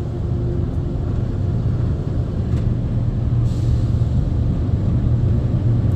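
Ryko Softgloss XS rollover car wash machine running over the car, heard from inside the cabin: a steady low rumble that builds slightly, with a brief hiss about three and a half seconds in.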